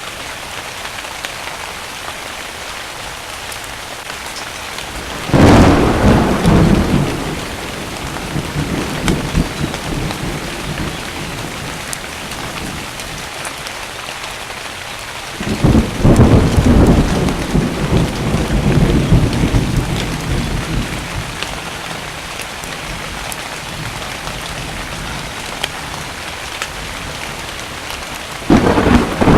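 Thunderstorm: steady rainfall with three loud claps of thunder, about 5 s in, about 15 s in and just before the end, each rumbling on and fading over several seconds.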